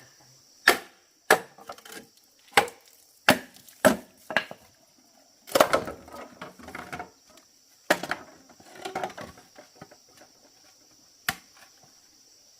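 Bamboo being chopped with a sharp knife: about nine separate, irregular strikes, a few followed by a short rattle of split pieces.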